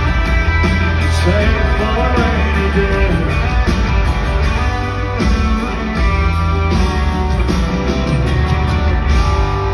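Live country-rock band playing an instrumental passage with no vocals: electric guitar over heavy bass.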